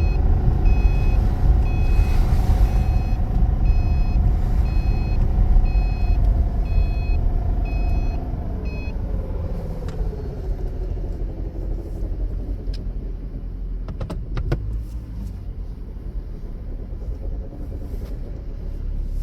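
2013 Subaru Impreza running, with a short electronic beep repeating about twice a second for the first half. The beeping then stops, a tone falls in pitch as the car slows and quietens, and a few sharp clicks follow near the end.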